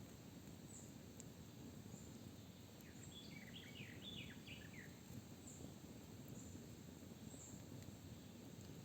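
Quiet forest ambience: a songbird sings one short phrase of quick falling notes about three seconds in, over a steady low background hush, with faint high chirps recurring every second or so.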